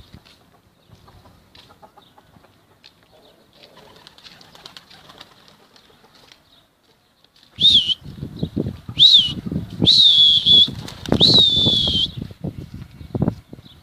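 Homing pigeons flapping their wings: a loud run of wingbeats starting about halfway through, with four short high whistled notes over it.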